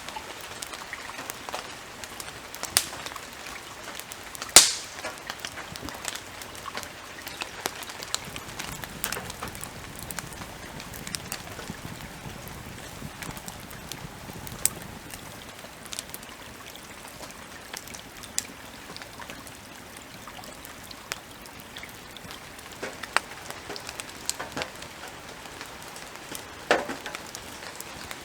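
Forest ambience: a steady soft hiss with scattered, irregular ticks and taps, and one sharp crack about four and a half seconds in.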